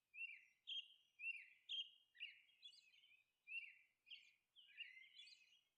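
Faint small birds chirping: a run of short, high chirps, roughly two a second.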